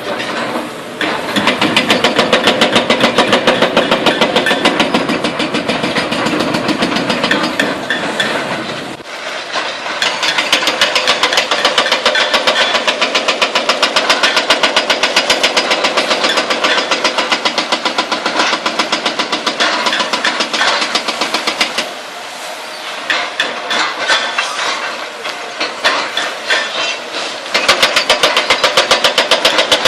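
Hydraulic breaker hammer on a demolition excavator pounding bridge concrete in a rapid, steady series of blows. It eases briefly about nine seconds in and goes softer for several seconds in the last third.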